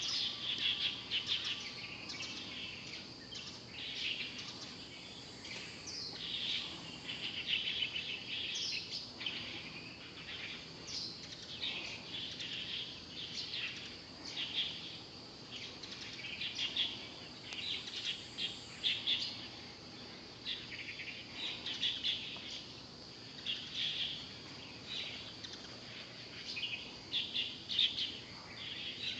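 Small birds chirping: short clusters of high chirps every second or two, some sweeping in pitch, over a faint steady hiss of outdoor ambience.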